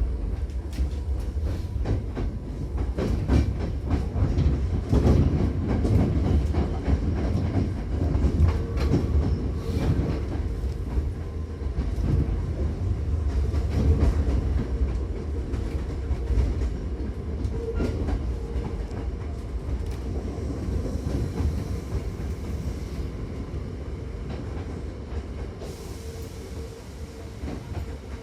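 Hankyu 7000-series commuter train running, heard inside the car: a low rumble of the running gear with irregular clacks as the wheels cross rail joints and points. It grows quieter toward the end.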